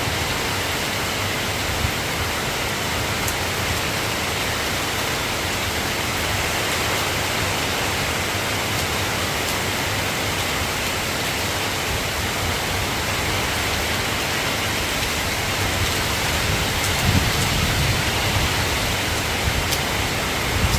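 Soft rain falling steadily, an even wash of drops with no pitch. A low rumble swells briefly near the end.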